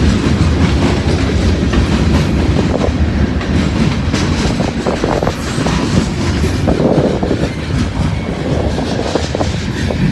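Freight train of mixed-manifest cars rolling past at close range, a steady rumble with the wheels clicking over rail joints, and wind on the microphone.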